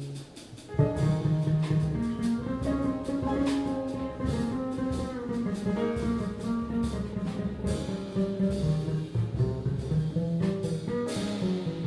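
A small jazz group playing live, with a brief near-pause in the first half second before the band comes back in.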